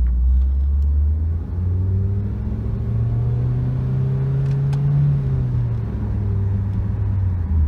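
A 2013 Ford Focus's 2.0-litre four-cylinder engine heard from inside the cabin under acceleration. Its note rises for a few seconds, then falls away from about two-thirds of the way through. The dual-clutch automatic will not hold third gear for the run.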